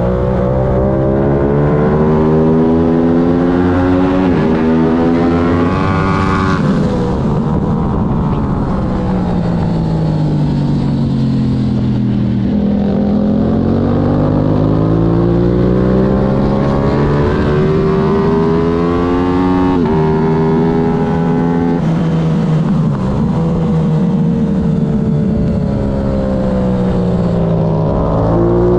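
Aprilia racing motorcycle engine under hard acceleration and braking on a road-race lap. Revs climb with sharp drops at upshifts around 4 and 6.5 seconds in, fall away as it slows for a corner, climb again through upshifts near 16 and 20 seconds, fall again for the next corner and pick up once more near the end.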